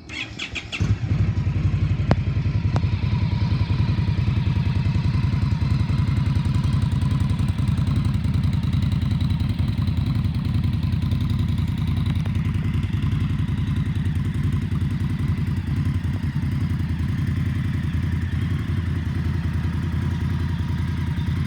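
2022 Indian Scout's liquid-cooled V-twin being started: a second of starter cranking, then the engine catches and idles steadily.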